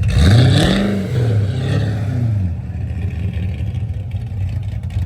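Car engine revving up and dropping back twice in quick succession, then settling to a steadier low running sound.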